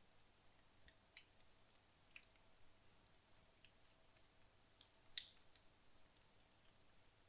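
Wood logs burning in a fireplace, crackling faintly with scattered, irregular sharp pops and snaps; the loudest snap comes about five seconds in.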